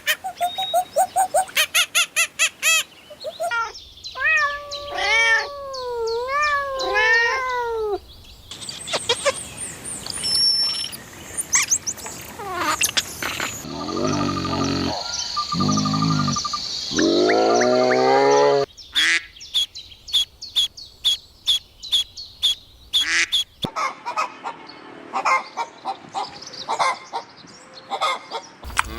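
A run of different animal calls cut together one after another, changing every few seconds. Many of them are chirping, whistling or bird-like calls, and one stretch near the end is a fast series of sharp notes.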